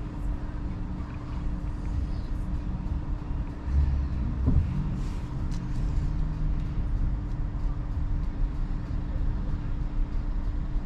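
A BYD Seagull electric car driving at speed: a steady low rumble of tyres on the road with a steady hum, and a louder low bump about four seconds in.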